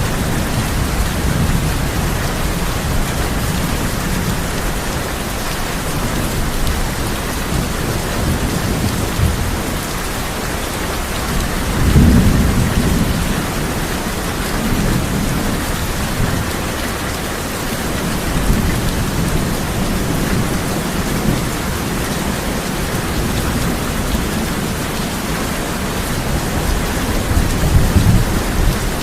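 Heavy rain drumming steadily on a tin roof, with low rolls of thunder rumbling under it, the loudest about twelve seconds in and another near the end.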